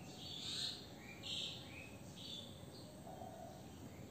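A bird calling: three short high calls about a second apart, then a pause, over a faint steady background hiss.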